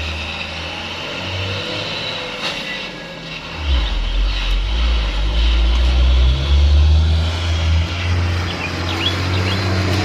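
Truck diesel engine running under load, growing louder and heavier about four seconds in as it pulls.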